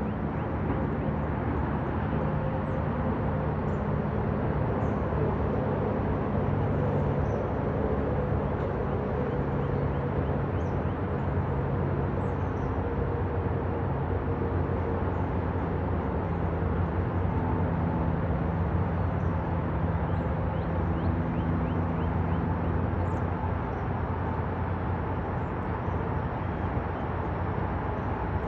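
Steady outdoor background noise with a low droning hum like a distant engine or traffic, unchanging throughout, and faint high chirps now and then.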